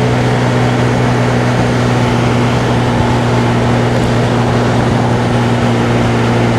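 Honda Navi's small single-cylinder engine running at a steady cruising speed while riding, with a constant rush of wind and road noise over it.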